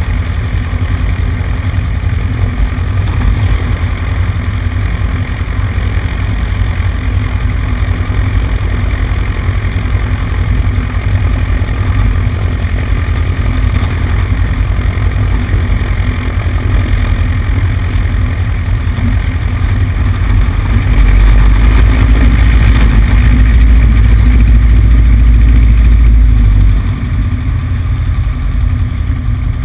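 Cessna 150's engine and propeller running steadily, heard as a dense low rumble through a wing-mounted action camera, with wind on the microphone. The low rumble swells louder for about six seconds past the two-thirds mark, then settles back.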